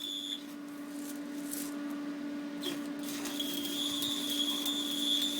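Stick (MMA) arc welding with an inverter welder: a steady crackling hiss over a low electrical hum. A high thin whine cuts out early on and comes back about three seconds in.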